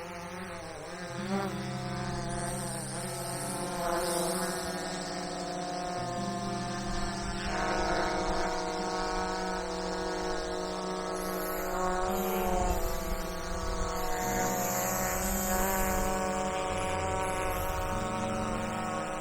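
Powervision PowerEgg X quadcopter hovering and manoeuvring: the whir of its four propellers, a layered hum whose pitch steps up and down every second or two as the motors change speed. Not really that loud.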